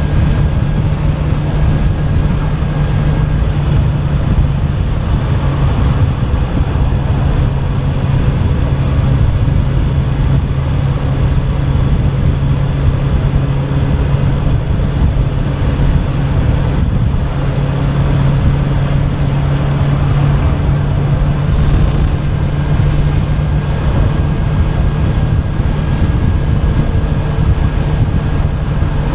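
Honda CB650R's inline-four engine through an Akrapovic exhaust, running at a fairly steady cruise while riding, with wind rushing over the microphone.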